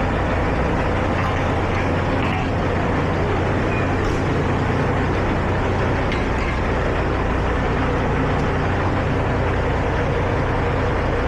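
Heavy truck's diesel engine running steadily under way, a low drone with road noise, heard from inside the cab.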